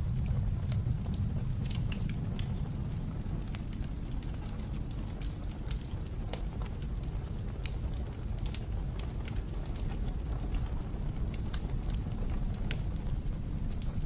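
Wood fire crackling in a fireplace, with irregular sharp pops and snaps over a steady low rumble of blizzard wind.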